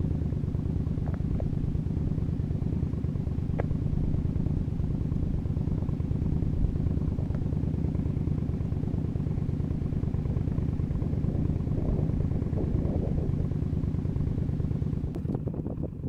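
Motorcycle engine running at a steady cruising speed, with wind rushing past the microphone. Near the end it eases off and gets quieter.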